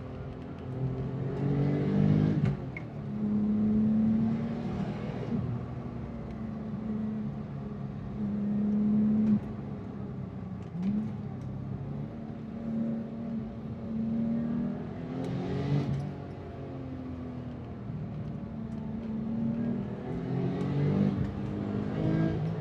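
Car engine being driven hard, revs climbing and dropping back several times as it accelerates through the gears, with steadier stretches in between.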